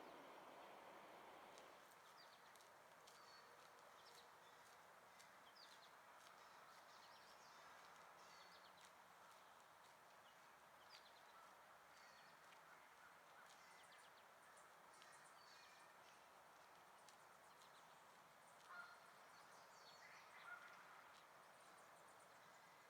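Faint outdoor ambience with small birds chirping on and off, and two short goose honks near the end.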